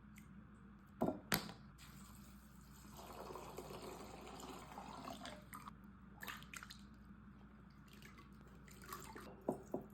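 A few light clicks and knocks, with a few seconds of soft trickling liquid in the middle.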